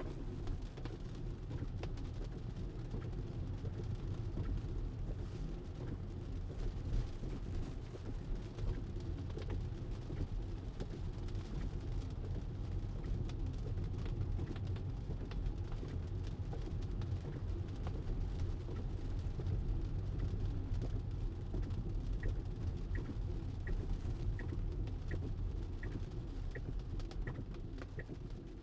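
Steady low road rumble inside a Tesla's cabin while driving in the rain. For the last six seconds a turn signal ticks evenly, about one and a half ticks a second.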